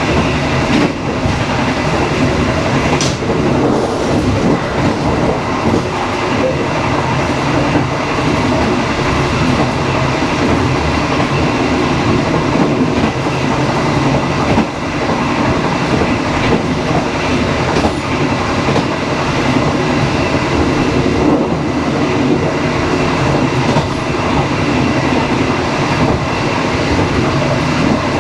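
Passenger train running at speed, a steady loud rumble and rattle of the carriage with wheels clacking over the rail joints.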